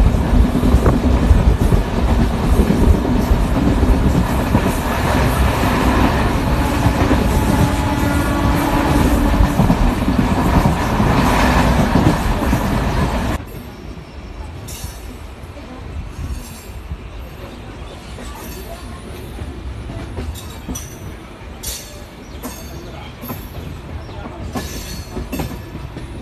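Passenger train running, heard from inside the carriage: a loud, steady rumble of wheels on rails. About halfway through it cuts abruptly to a quieter rumble with scattered sharp clicks from the wheels as the train rolls through a multi-track station yard.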